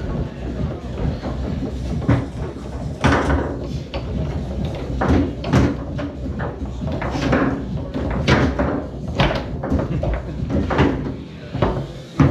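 Tornado foosball table in play: the hard ball knocked by the plastic players and banging off the table walls, with rods clacking, in a fast, irregular run of sharp knocks.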